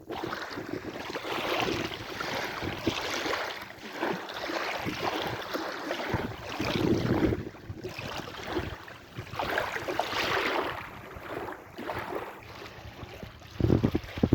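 Sea waves washing in and receding, the noise swelling and falling back every few seconds, with wind buffeting the microphone in low rumbling gusts near the end.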